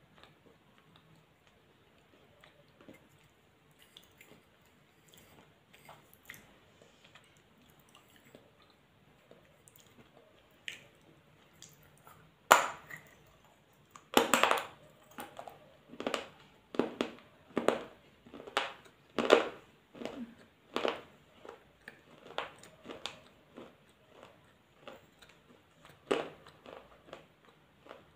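Close-up chewing of crunchy food: faint chewing at first, then from about halfway a run of loud crunches roughly one a second, and one more near the end.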